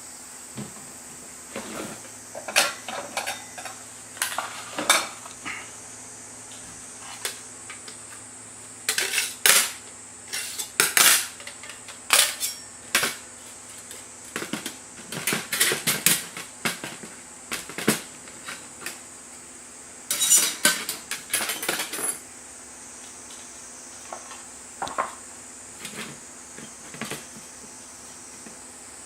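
Metal cookware and utensils clinking and clattering as they are handled, in irregular bursts that are busiest through the middle stretch.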